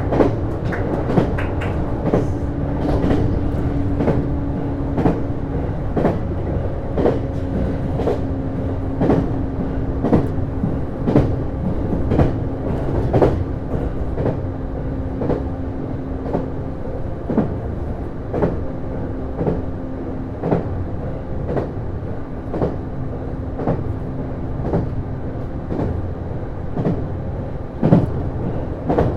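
Interior running sound of a JR East HB-E210 series hybrid railcar travelling at steady speed: a steady drone with a held low tone, under frequent sharp clicks of the wheels over the rails.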